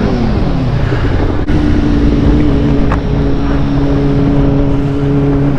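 A motor vehicle engine winding down in pitch over the first second, then running at a steady speed with an even hum, under a heavy low wind rumble on the microphone.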